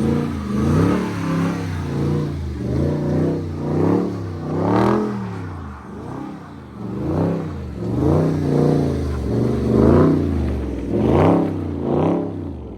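Dodge Scat Pack's 392 HEMI V8 being revved up and down over and over, rising and falling about once a second. It eases briefly midway, then the revs drop away sharply near the end.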